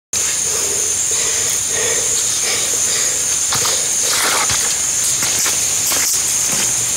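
Loud, steady high-pitched evening chorus of calling animals, with a few lower calls in the first couple of seconds and scattered clicks and knocks.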